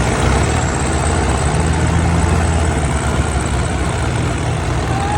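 Tractor diesel engine running steadily with a loud, even low rumble.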